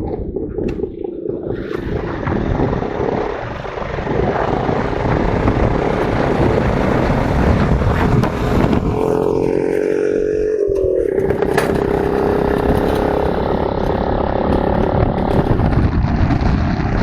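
Motorcycle engine running under way, with steady rushing noise. Its pitched note comes through clearly between about nine and eleven seconds in, then drops in pitch.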